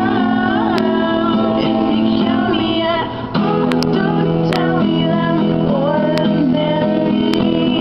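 A song: a voice singing over a strummed acoustic guitar, with a brief break about three seconds in.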